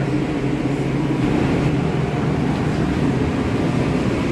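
Steady cabin hum of a Boeing 777 parked at the gate, from its air-conditioning airflow, with a low, even drone.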